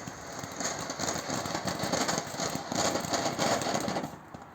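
Strobe fountain firework burning with a rapid, uneven sputtering crackle, dying out about four seconds in as the fountain burns out.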